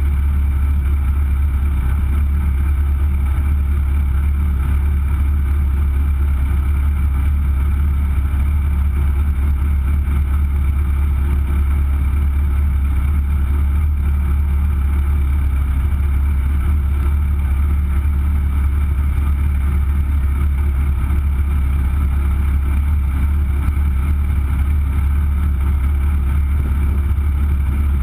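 A Legend car's Yamaha four-cylinder motorcycle engine idling steadily as a constant low hum. It is heard through a camera mounted on the car's nose.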